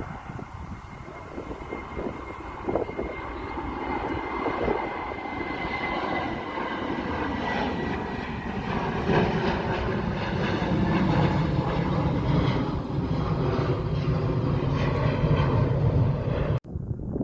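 Airliner's engines growing steadily louder as it passes, with a thin high whine that slowly falls in pitch. The sound cuts off suddenly near the end.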